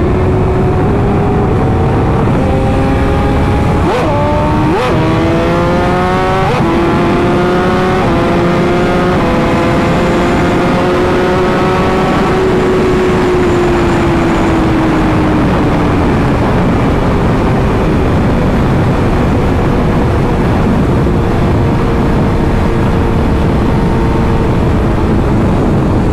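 Inline-four liter sportbike engine accelerating hard through several quick upshifts in the first seven seconds, its pitch climbing in each gear and dropping at each shift. About twelve seconds in it eases off with falling pitch, then holds a steady cruise, under heavy wind rush.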